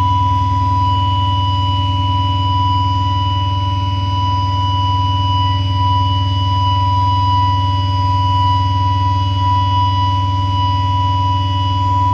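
A loud, steady electronic tone near 1 kHz held without change over a heavy low hum: a sustained drone or feedback tone from the band's amplified stage rig between songs.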